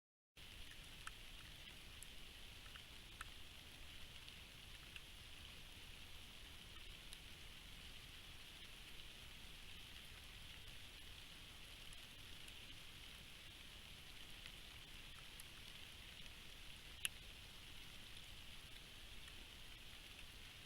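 Faint, steady rain falling, with scattered drops ticking and one sharper drip about seventeen seconds in.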